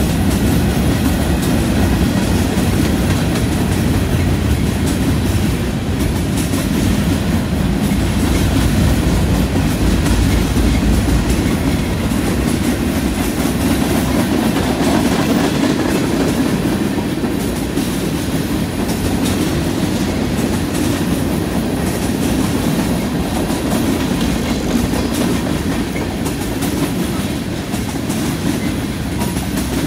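Freight cars (covered hoppers, then loaded tank cars) rolling steadily past close by: the continuous rumble of steel wheels running on the rails.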